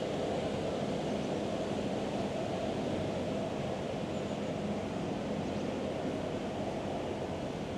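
Steady outdoor city background: a low, even rumble with a faint hum and no distinct events.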